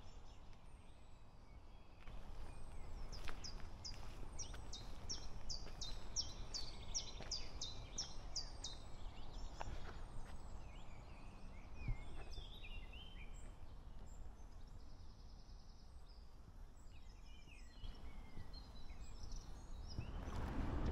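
Songbirds calling over a steady low background noise. About 3 to 9 s in there is a run of roughly a dozen high, falling notes at about two a second, followed by several seconds of varied twittering.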